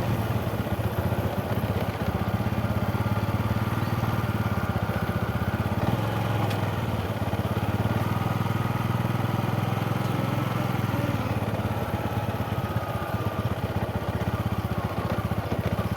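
Motorcycle engine running steadily at an even, low speed, with no revving.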